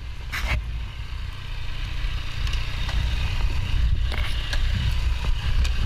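Motorcycle engine running with a steady low rumble under a faint even hiss, with a few light clicks.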